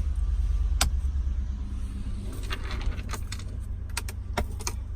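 Several sharp clicks and light rattles over a steady low rumble.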